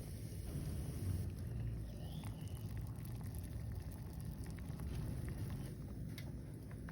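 Campfire cooking: scattered small crackles and pops from the fire and the simmering pot over a steady low rumble of wind on the microphone.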